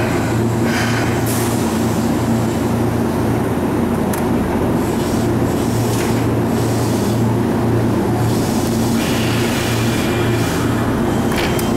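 Keihan 6000 series electric train standing at the platform with its doors open, its onboard equipment giving a steady low hum.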